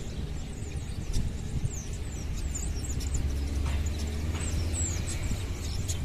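Small birds chirping over the river, a scatter of quick high calls that slide downward, over a steady low rumble.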